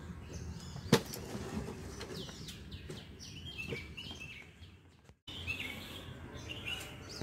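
Small birds chirping repeatedly in the background: short, quick notes falling in pitch. There is a single sharp knock about a second in, and the sound drops out for an instant just past the middle.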